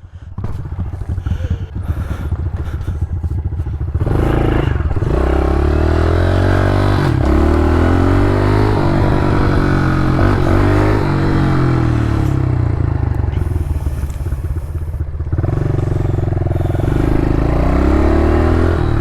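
Pit bike's small single-cylinder engine running at low revs for about four seconds, then pulling away: its pitch climbs and drops again and again as it accelerates and shifts up through the gears.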